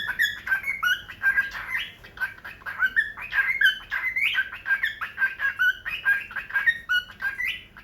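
Pet parrot talking to its reflection in a mirror: a fast, unbroken chatter of short chirps and squawks that stops abruptly near the end.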